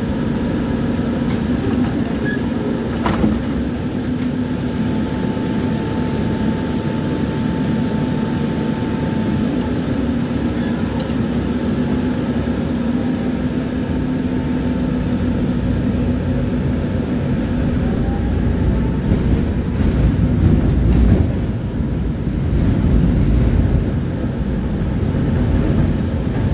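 Tram running along the track: a steady rumble of wheels on rail with a constant motor hum, and a few sharp clicks in the first seconds.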